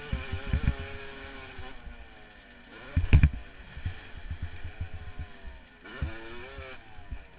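Yamaha YZ250 two-stroke motocross engine revving up and down as the bike is ridden, with low rumbling thumps on the microphone and one loud thump about three seconds in.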